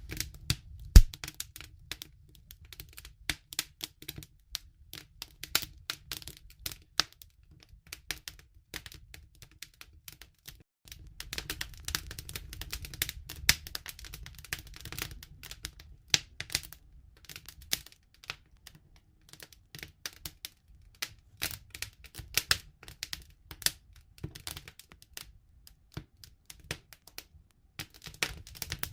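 Wood campfire crackling: irregular sharp pops and snaps over a low steady rumble of the burning fire, with one loud snap about a second in.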